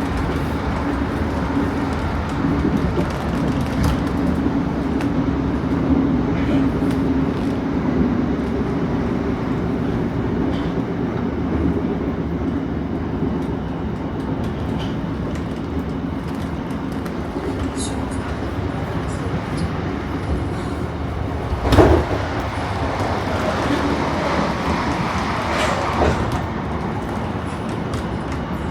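Class 455 electric multiple unit running, heard from inside the carriage: a steady rumble with a motor hum, and one sharp loud knock about three-quarters of the way through.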